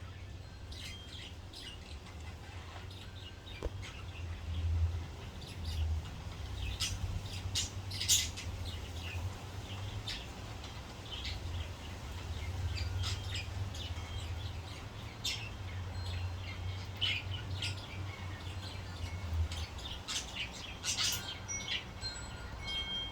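Pet budgerigars chirping and twittering in short, scattered calls, over a low steady rumble.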